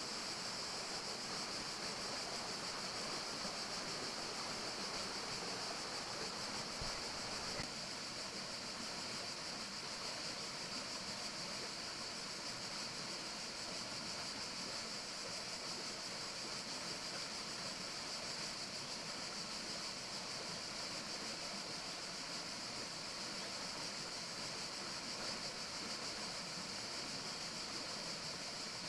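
Steady forest ambience: an even, unbroken rushing hiss with a strong high-pitched band, dipping slightly about eight seconds in.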